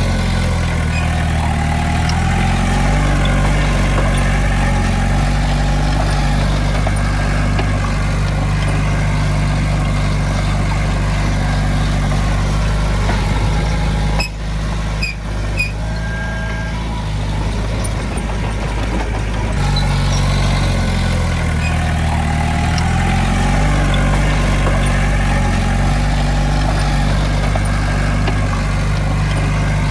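Heavy diesel earth-moving machinery engine running, its pitch rising and falling several times as it works. About halfway through the engine drops away for several seconds, with a couple of clicks and a brief high tone, then comes back at full level.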